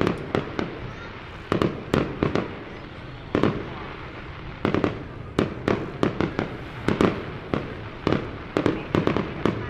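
Fireworks display going off: a rapid, irregular series of sharp bangs, often several in a second, over a steady background rumble.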